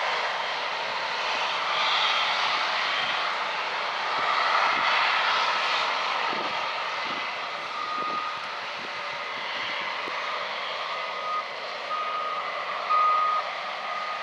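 Farm harvest machinery running steadily. From about eight seconds in, a reversing alarm beeps about once a second.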